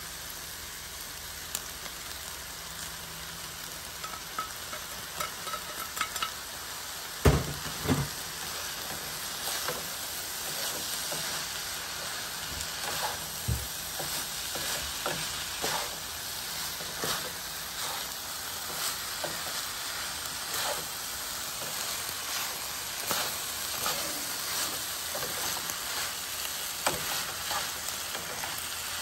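Beef and noodles sizzling in a frying pan while being stirred and tossed, with frequent light clicks of the utensil against the pan. Two heavier knocks come about seven and eight seconds in, and another a few seconds later.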